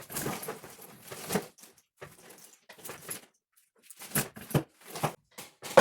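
Rustling and clicking as a car engine wiring harness is handled: wires and plastic connectors shifting and tapping, with a few sharper knocks near the end.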